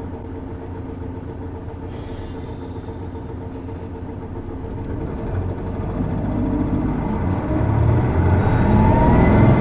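Isuzu Erga city bus (PKG-LV234L2) heard from inside, its diesel engine getting steadily louder from about halfway as the bus accelerates, with a short rising whine near the end. This bus's engine is known for a distinctive odd noise.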